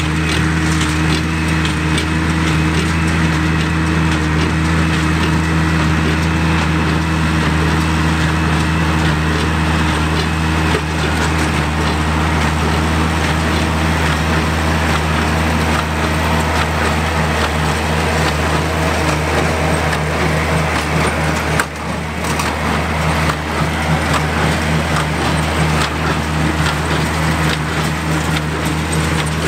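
Oliver 770 tractor's six-cylinder engine running steadily under load, pulling a Sperry-New Holland 276 Hayliner small square baler whose pickup and plunger crunch through the hay.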